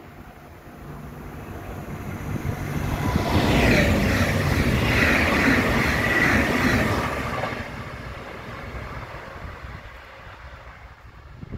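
A train passing by: the rushing noise of wheels on the rails swells, is loudest for about four seconds, then fades away.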